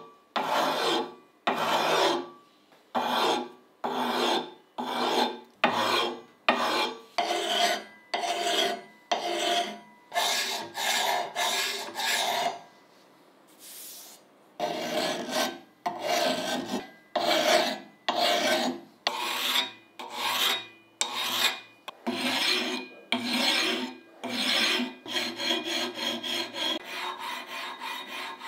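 Repeated rasping strokes, about one to two a second. They break off briefly around halfway and come shorter and quicker near the end.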